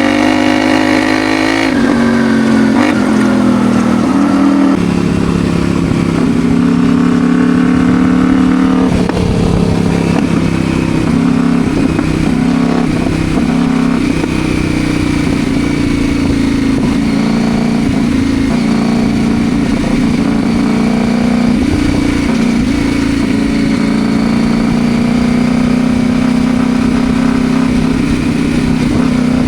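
CFMOTO Ibex 800T motorcycle's parallel-twin engine running under way. Its pitch falls about 2 s in, steps about 5 s in and falls again near 9 s, then holds fairly steady.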